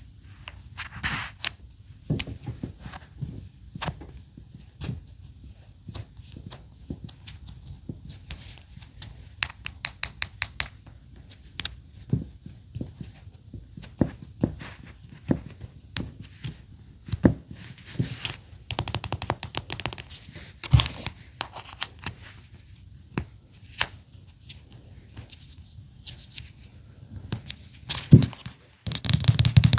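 Small plastic miniature grocery items clicking and tapping as they are handled and set into a plastic toy fridge. There is a short stretch of rustling about two-thirds of the way through.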